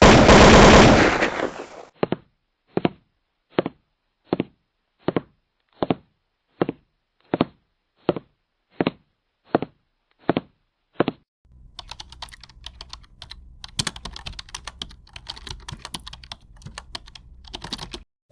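A run of separate clicking sound effects. A loud noisy burst lasts about two seconds. Then come about a dozen single sharp clicks, evenly spaced about three quarters of a second apart. Then comes rapid irregular clicking like typing on a computer keyboard, over a low hum.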